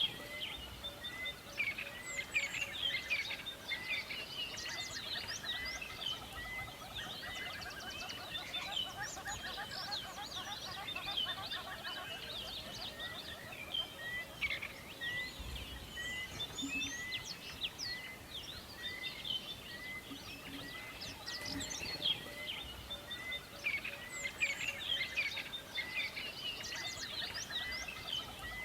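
A chorus of many birds chirping and trilling together, with one bird repeating a short note about one and a half times a second for much of the time.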